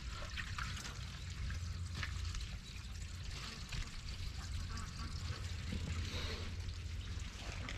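Pond water trickling and pouring steadily through a freshly cleared outlet in the ice.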